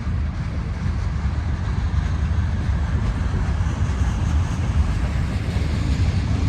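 A slow CSX freight train's boxcars rolling past, a steady low rumble of wheels on rail.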